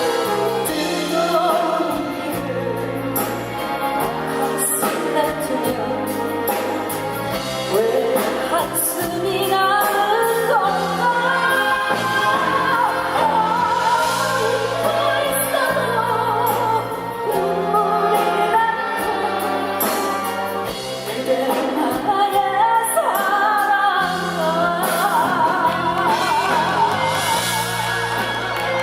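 Live performance of a Korean winter song by a female singer with band accompaniment: a sung melody held with vibrato over a steady bass line.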